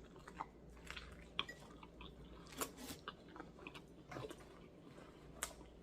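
A person chewing food close to the microphone, with scattered short wet clicks and crunches.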